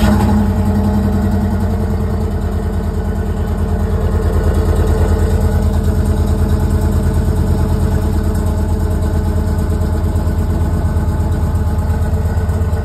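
2008 Chevrolet Impala SS's 5.3-litre LS4 V8 cold-starting through its factory exhaust: it catches suddenly and loudly, then settles into a steady idle, heard at the tailpipe.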